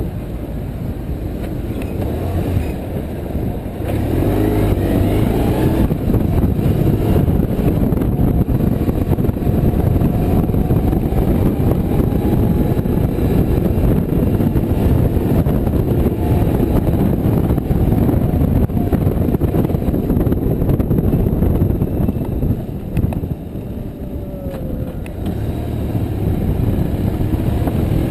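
BMW R1150RT motorcycle on the move: its flat-twin engine runs under a dense rush of wind. It gets louder about four seconds in, as if speeding up, and eases off briefly a little after twenty seconds before picking up again.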